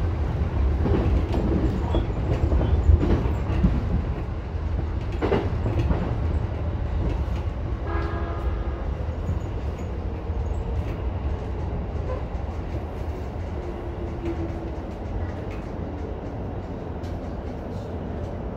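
E233-1000 series electric commuter train running on the line, a steady rumble of wheels on rails that slowly eases off, with a short horn-like tone about eight seconds in.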